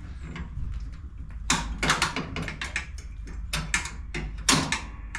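Sharp metal clicks and knocks, several in a row with the loudest about halfway through and near the end, as a riding mower deck's hanger pin and clip are worked loose. A steady low hum runs underneath.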